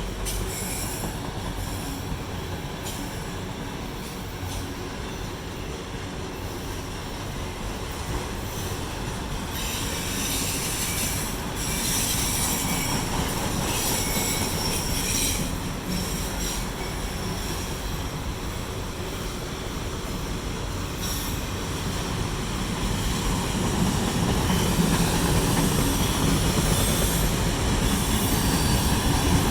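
Autorack freight cars rolling past with a steady rumble of wheels on rail, broken partway through by a stretch of high-pitched wheel squeal; the rumble grows louder near the end.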